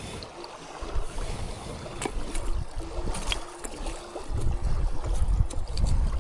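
Wind buffeting the microphone outdoors, in gusts that grow stronger about four seconds in, with a few scattered light clicks.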